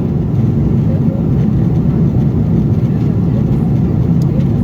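Steady low roar of a Boeing 777-300ER's passenger cabin in cruise: airflow and engine noise heard from inside the cabin, with a few faint clicks near the end.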